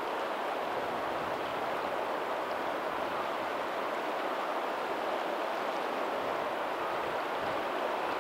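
Steady rush of water from a lagoon's tidal outflow running into the sea, with faint ocean surf beneath it.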